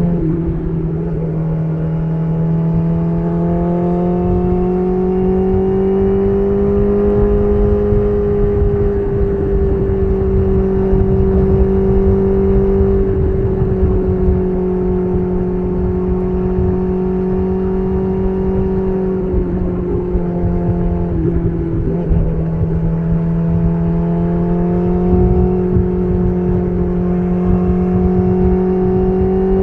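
BMW S1000RR inline-four engine running at steady revs through an SC Project CR-T titanium exhaust while riding. The note holds level, then briefly drops and climbs back about twenty seconds in.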